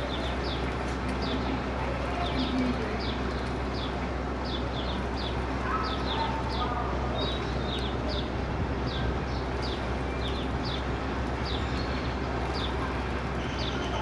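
A bird chirping steadily, short falling notes about two a second, over a steady background hiss and low hum.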